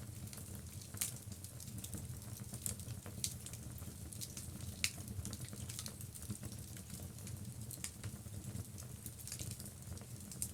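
Wood logs burning in a fireplace, crackling with irregular sharp pops and snaps over a steady low rumble from the flames.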